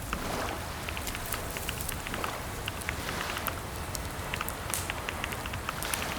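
Computer keyboard typing: quick, irregular key clicks over a steady low hiss.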